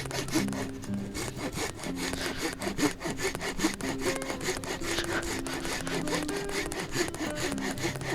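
Hand saw cutting through wood in rapid, regular back-and-forth strokes, with background music playing.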